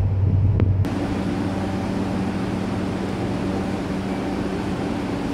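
Electric train (JR Shikoku 8600 series) running with a steady low hum under a broad rushing noise. A louder, deeper hum cuts off abruptly a little under a second in.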